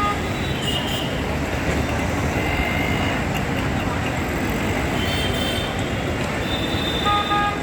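Steady noise of heavy road traffic, with short horn toots around a second in and again near the end.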